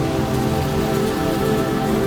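Steady rain falling, an even hiss with no pauses, with sustained soft music tones underneath.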